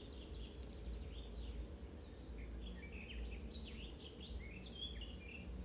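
Small birds chirping faintly in the background: many short, quick sliding notes, with a high rapid trill that stops about a second in, over a low steady hum.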